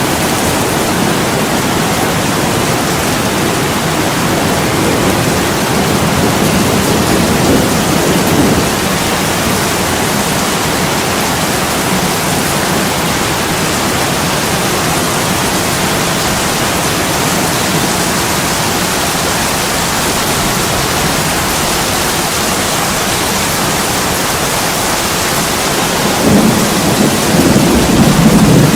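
Heavy rain pouring onto window glass, a steady hiss of water, with low thunder rumbling in twice, once about a quarter of the way in and again, louder, near the end.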